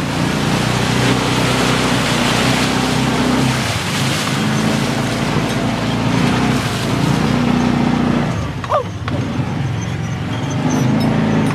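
Off-road vehicle engine revving as it drives through mud, its pitch rising and falling several times over a steady rushing noise.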